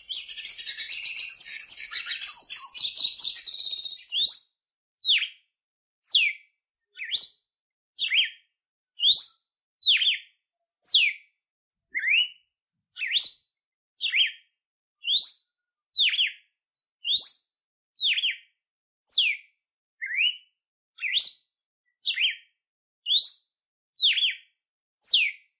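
Songbirds singing: a fast, dense twittering song for the first four seconds, then a regular series of single clear whistled notes, about one a second, each a quick slide upward or downward in pitch.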